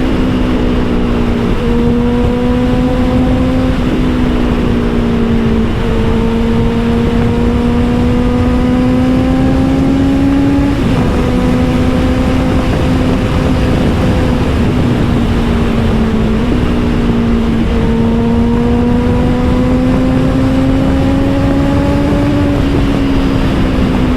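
Honda CBR650R's inline-four running through an Austin Racing GP1R exhaust under way. Its pitch climbs gently and then drops at each of several gear changes, over a steady rush of noise.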